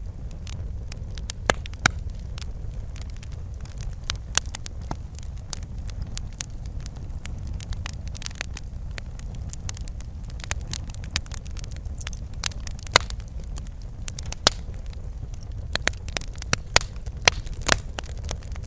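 Fireplace fire crackling, with irregular sharp pops and snaps over a steady low rumble of the flames.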